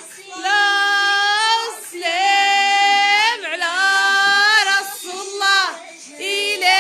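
A woman's voice singing a series of long, held notes, each about a second long, with short slides in pitch between them.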